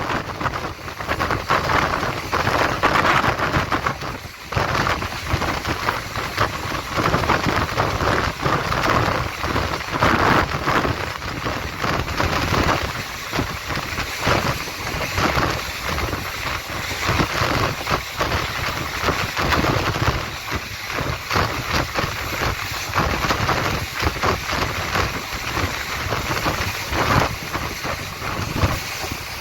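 Train running on the rails: a steady rumble with dense, irregular rattling and clatter from the wheels and cars.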